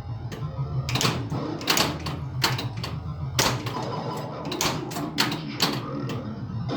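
1981 Bally Centaur pinball machine in play: irregular sharp clacks from its flippers, bumpers and coils firing as the ball is struck, over a steady low hum.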